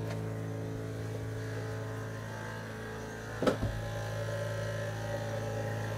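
Audi A3 ABS pump motor running steadily with a low, even hum while it is driven through the VCDS brake-bleeding procedure. There is a single sharp knock about three and a half seconds in.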